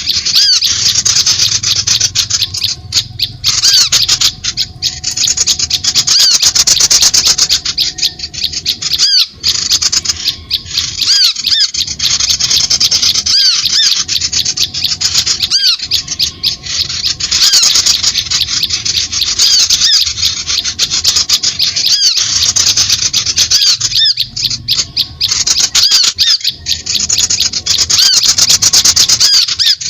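Bird-call lure recording: a loud, dense, unbroken chatter of rapid high-pitched chirps and squawks from small birds, played to attract birds.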